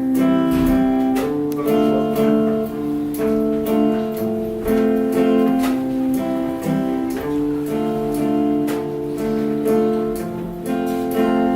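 Guitar strumming chords in a steady rhythm, with no voice: the instrumental introduction of a song.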